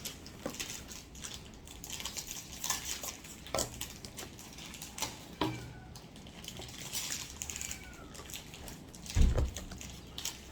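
Scattered light clicks, taps and rustles of objects being handled, with one heavy thump about nine seconds in.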